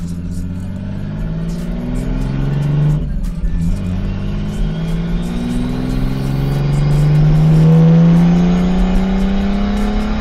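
A straight-piped, turbocharged 2.0-litre RB20DET inline-six in a Nissan 240SX accelerating under load, heard from inside the car. The engine note rises, drops briefly about three seconds in as it shifts gear, then climbs steadily through the next gear, with a faint turbo whistle rising along with it.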